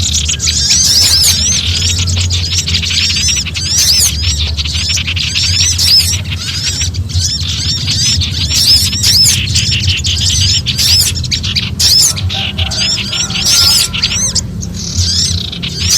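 A mix of small songbirds giving frantic alarm chatter: many rapid, high chirps overlapping without a break, over a steady low hum. It is a bird-trapping lure call meant to draw other birds in.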